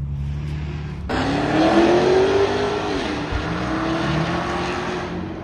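A car engine idling low, then revved hard about a second in and held at high revs, with a brief dip partway through. Very loud.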